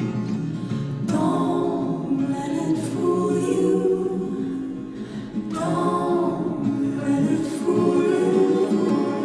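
Music: layered, choir-like wordless singing that enters about a second in and swells again a little past the middle, over an acoustic guitar heard just before.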